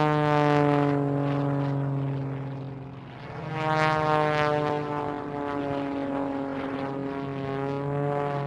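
Propeller airplane engine drone, a cartoon sound effect, swelling in loudness twice as the plane passes, its pitch dipping slightly as it fades after each pass.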